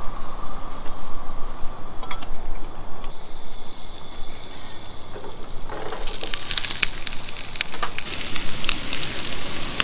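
Butter and olive oil sizzling in a hot pan, the crackle growing louder and busier about six seconds in.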